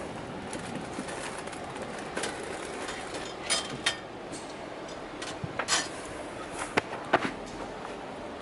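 A river rushing steadily, with a few scattered sharp clicks and knocks over it in the second half, the loudest two close together about seven seconds in.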